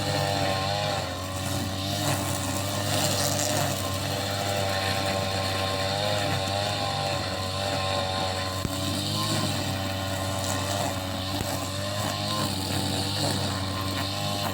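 Petrol lawnmower engine running steadily, with a whine that wavers up and down in pitch as it works.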